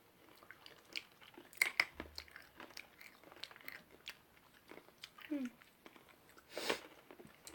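Quiet chewing and crunching of sweet and salty M&Ms, with scattered small crisp clicks.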